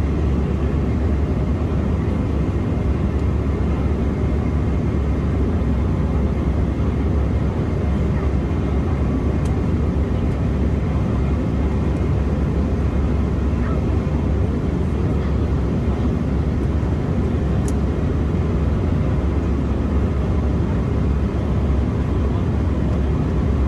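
Steady cabin noise of an Embraer E175 airliner in flight, heard from inside the cabin: a constant deep rumble from its GE CF34 turbofan engines and the airflow over the fuselage.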